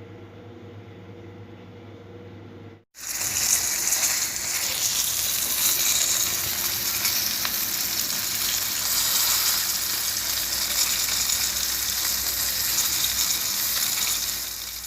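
A steady low hum for about three seconds, then a sudden cut to fish frying in hot oil: loud, steady sizzling and crackling that fades out just at the end.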